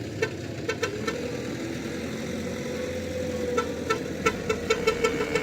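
Cowbells clanking as cattle move, in irregular short strokes that quicken to about five a second near the end, over a steady low rumble.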